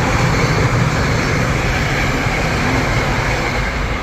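A train running along the tracks: a loud, steady rumble and rattle with a faint high tone above it.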